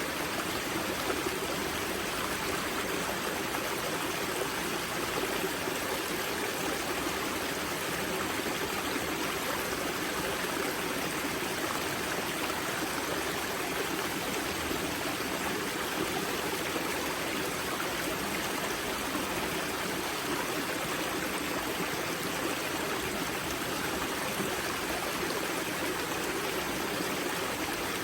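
Water of a karst spring's outflow rushing and splashing steadily over rocks at the river's source, a continuous even rush with trickling.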